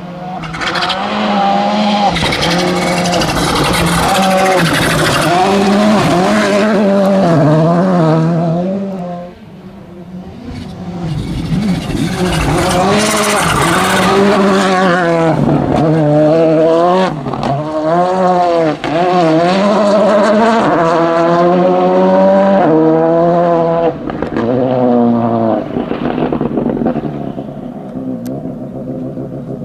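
VW Polo GTI R5 rally car's 1.6-litre turbocharged four-cylinder engine at full throttle, its note repeatedly rising and dropping through quick gear changes. The sound falls away about nine seconds in, builds back up, and fades near the end.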